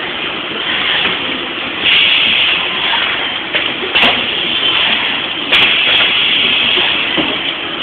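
High-frequency plastic welding machine with automatic feeder running: a steady loud hiss broken by a few sharp clicks.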